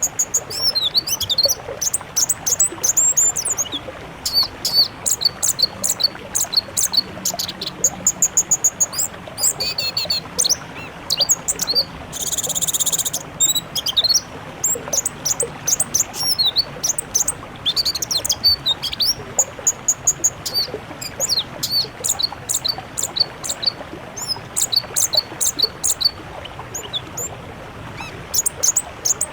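Songbirds chirping and trilling in a busy, layered medley of quick high whistles, rapid repeated notes and fast trills, with a harsh rasping call lasting about a second, roughly twelve seconds in.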